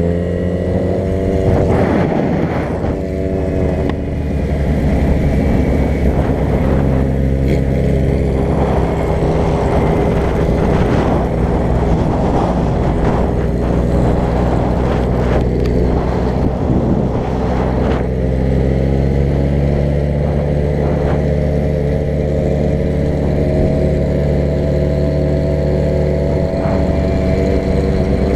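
Vehicle engine running steadily while driving, its pitch easing down and later rising slowly, with scattered knocks and rattles from the road.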